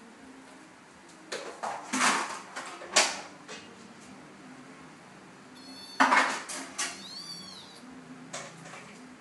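A cat meowing, with clattering knocks of things being bumped or dropped, first in a cluster during the first few seconds and again just before the meows.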